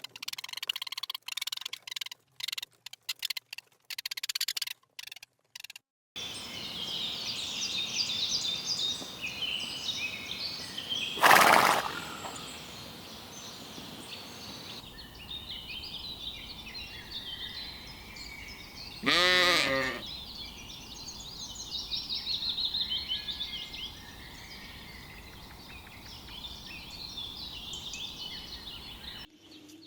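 A sheep bleating, one harsh call about eleven seconds in and a clearer wavering one about nineteen seconds in, over small birds chirping. The first few seconds hold short cut-off sounds.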